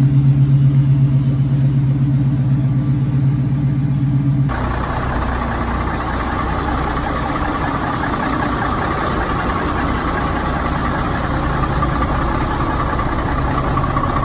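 Vehicle engine idling steadily. About four and a half seconds in, an abrupt cut changes it to a different, noisier engine idling.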